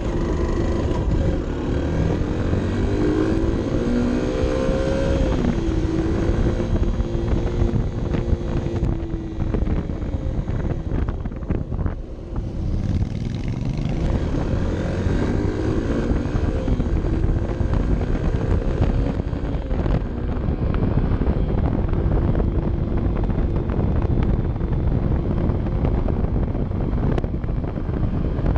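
Honda CB 125 F's single-cylinder four-stroke engine running on a mountain descent, its revs climbing and falling several times, with a brief drop about twelve seconds in. Wind rush on the microphone runs underneath.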